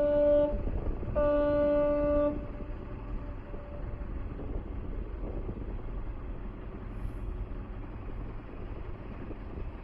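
Ship's whistle of the JMSDF minesweeper Aoshima giving the last blasts of a five-short-blast warning signal: one blast cuts off about half a second in, and a final blast of about a second follows. Then only a low steady rumble.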